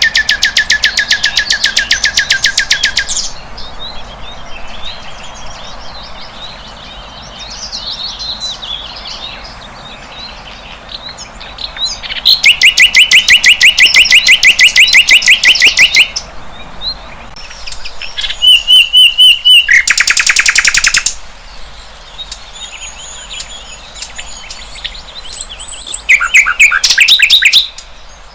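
Sikatan londo flycatcher singing: loud, very fast trills of rapidly repeated high notes, each lasting a second to about four seconds, with soft twittering between them.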